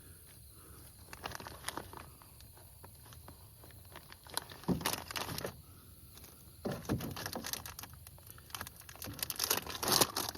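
Light rain starting to sprinkle: scattered raindrops tapping irregularly, with a few denser flurries and the loudest near the end.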